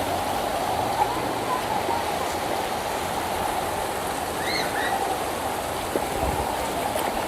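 Floodwater flowing in a steady rush, with two short chirps about halfway through.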